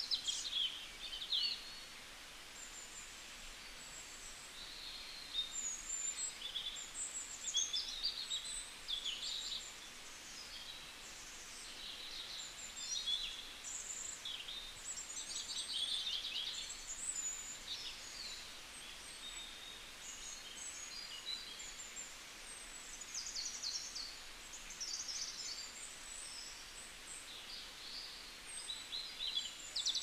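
Birds chirping in the trees: many short, high calls, overlapping and coming in clusters with brief lulls, faint over a low background hum of the surroundings.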